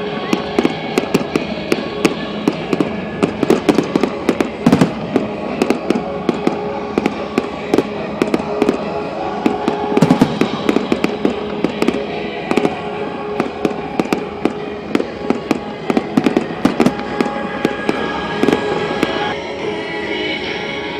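Fireworks display: a dense, continuous crackle of bursting fireworks, several cracks a second, with louder bangs about 5 and 10 seconds in.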